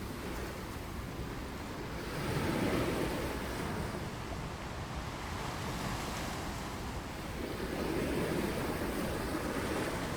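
Ocean surf washing onto a beach, two waves swelling and breaking, one a couple of seconds in and another near the end, over a steady low rumble.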